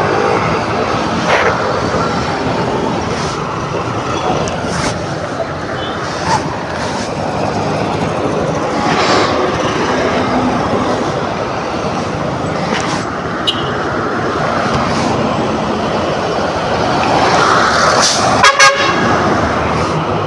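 Steady road and wind noise of a motor scooter on the move, then near the end two short honks of a vehicle horn.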